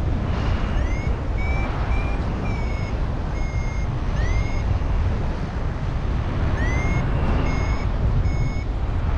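A paragliding variometer giving short high climb beeps, some sliding up in pitch, irregularly spaced with a pause of about two seconds in the middle: the tones that signal the glider is rising in lift. Strong wind rumbles on the microphone underneath.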